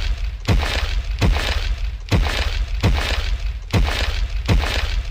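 A rapid series of sharp crashing, cracking impacts, a little more than one a second, each trailing off in a crackle.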